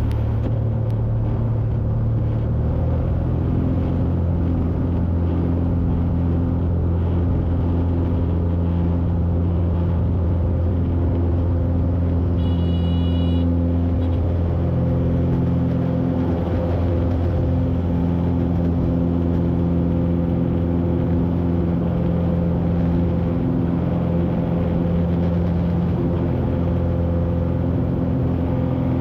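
Steady drone of a Cessna 182's piston engine and propeller, heard from inside the cockpit in cruise flight. A short high beep sounds about halfway through.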